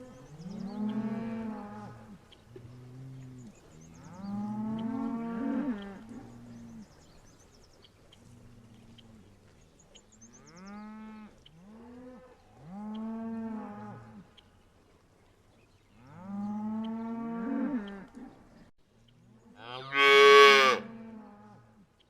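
Cattle mooing: about six long calls a few seconds apart. The last call, near the end, is the loudest and higher-pitched.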